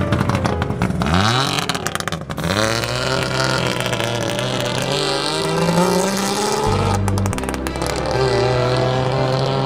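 A 1959 Saab's three-cylinder two-stroke engine revving as the car pulls away, its pitch sweeping up twice in the first few seconds, then running on at steadier revs.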